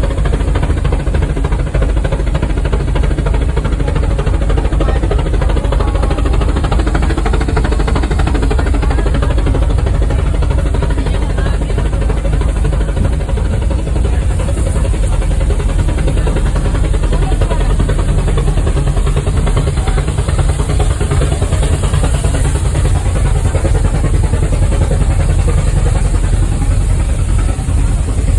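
Steam rack locomotive of the Brienz Rothorn Railway running, a loud, steady, heavy mechanical sound that holds without a break.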